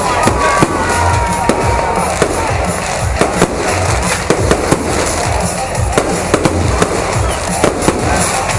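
Fireworks salute: a dense, irregular series of sharp bangs over continuous crackling.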